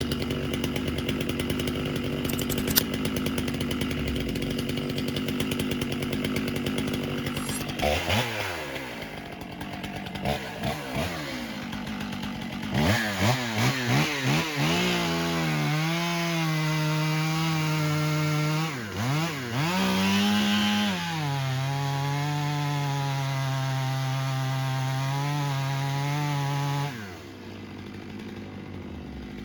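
Two-stroke chainsaw engine running steadily at first. About eight seconds in it is blipped up and down several times, then held at high revs with a couple of brief dips, and it drops back to a lower idle near the end.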